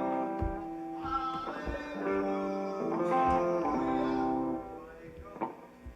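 Guitar playing held, ringing chords that change every second or so, with a few low thumps under them; it dies down about two-thirds of the way through.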